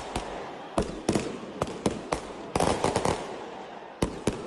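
Fireworks and firecrackers going off: about a dozen sharp bangs at irregular intervals, bunched closest together a little past the middle.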